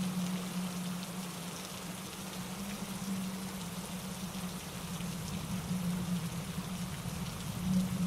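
Steady rain falling in pine and leafy trees, mixed with a mountain stream tumbling over granite rocks: a continuous, even rush of water that hardly changes.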